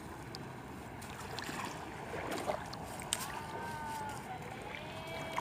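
Steady wash of wind and surf at the seashore, with a few faint distant gliding calls about three and a half seconds in and again near the end.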